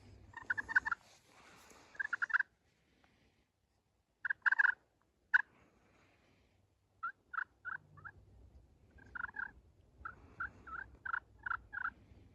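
Turkey calling: several runs of short, sharp notes, some in quick clusters and some in evenly spaced series of four to seven.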